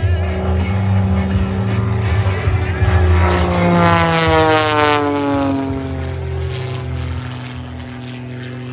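Propeller aerobatic plane, Nathan Hammond's 1956 Super Chipmunk, making a fast pass. Its engine and propeller note drops steeply in pitch as it goes by, about three to six seconds in, then fades.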